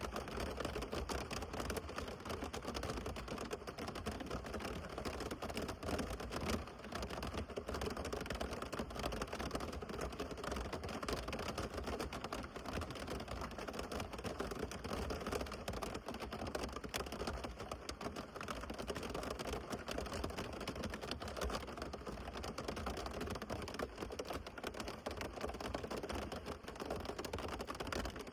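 Heavy rain pattering steadily, a dense, unbroken spatter of drop ticks.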